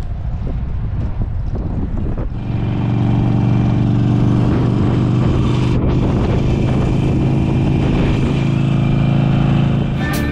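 Motorcycle engine idling close by, rough at first and then settling into a steady, even idle about two seconds in.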